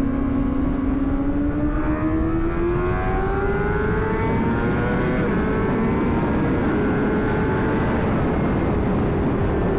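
2009 Honda CBR600RR's inline-four engine accelerating hard, its pitch rising steadily for about five seconds and then holding high, under heavy wind rush.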